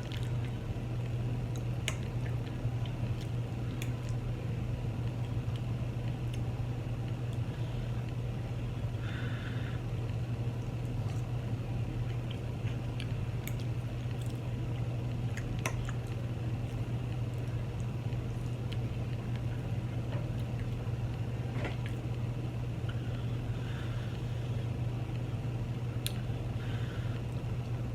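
Close-up chewing and eating of saucy chili cheese fries, with scattered light clicks and a few short wet squishy sounds, over a steady low hum.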